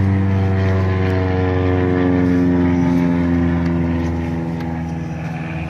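A running BMW E46 engine heard close up in the engine bay: a steady mechanical hum of several held tones, some drifting slightly in pitch, easing off a little near the end.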